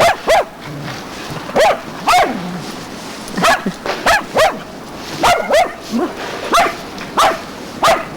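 A dog barking over and over: about a dozen short, sharp, high barks, often two in quick succession, with gaps of about half a second to a second between them.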